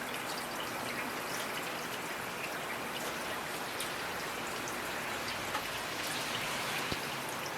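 Steady rainfall, a continuous hiss of rain with many individual drops ticking on surfaces.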